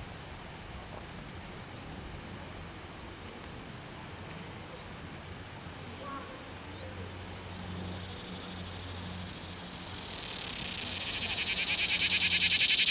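Male cicada calling: a fast, even series of high ticks, about five a second, that swells about ten seconds in into a loud, continuous, rasping buzz growing louder to the end.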